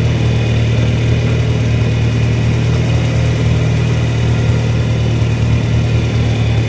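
John Deere 3010 tractor engine running steadily while the tractor drives along in gear, a loud low hum with no change in speed.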